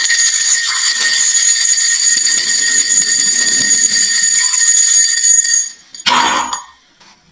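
A loud, steady, high-pitched tone with overtones that starts suddenly, holds for about five and a half seconds and cuts off, followed by a short noisy burst.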